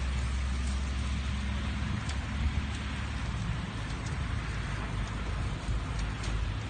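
Loaded logging truck burning: a steady hiss with a few faint crackles over a low, steady rumble that eases a little about two seconds in.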